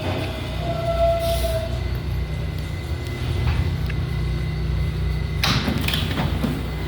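Interior of an R188 subway car: steady low rumble of the train, with a faint steady high whine throughout and a brief high squeal about a second in. A short loud rushing noise comes near the end.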